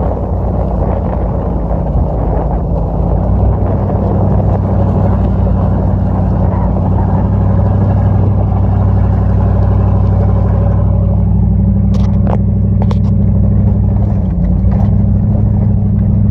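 Dodge Ram pickup's engine running steadily as the truck climbs a rough dirt trail, heard from inside the cab with the rumble of tyres on the track. The engine note steps up a few seconds in and dips briefly near the end. The rough road noise eases about two thirds through, followed by a few sharp clicks.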